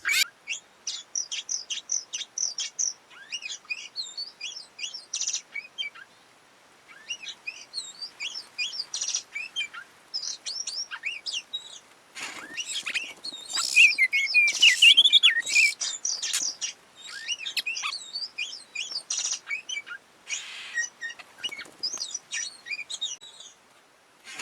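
Oriental magpie-robin (kacer) singing and chirping: a long run of quick, varied short notes and whistles. The song is loudest and fullest about halfway through.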